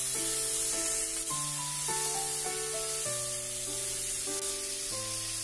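Prawns frying in hot mustard oil in a stainless steel kadai, a steady sizzle, under background music with a stepped melody and bass notes.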